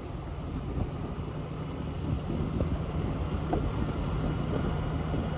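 Motorbike engine running steadily while riding, with a low, even hum and wind noise on the microphone.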